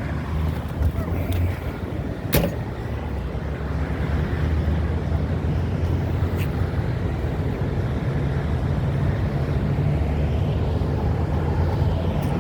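Diesel semi-truck engine idling with a steady low rumble, and a sharp click twice.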